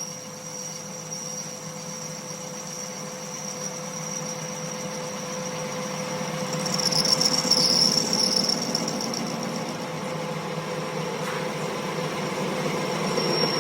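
A machine running steadily with a constant high whine and a lower hum, growing louder for a couple of seconds around the middle, then settling back.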